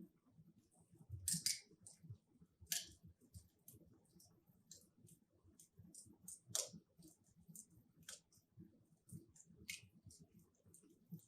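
Logs burning in a wood fireplace, crackling: irregular sharp pops and snaps over a faint low rustle of flame. The loudest pops come about a second and a half in, near three seconds, and about six and a half seconds in.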